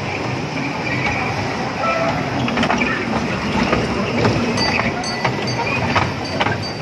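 A kiddie ride train running, with scattered clicks and knocks over a steady din of background voices.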